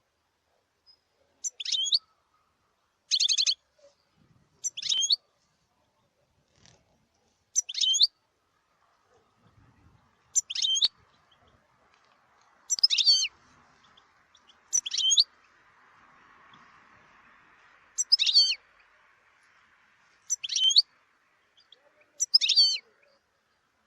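European goldfinch calling in short, high, twittering phrases, about one every two seconds.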